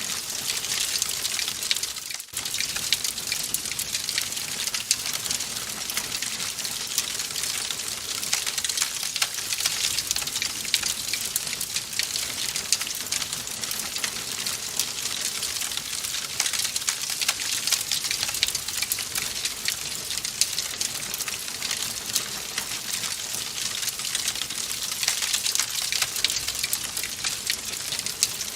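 Wood fire burning in a fireplace, crackling steadily: many small snaps and pops over a soft hiss.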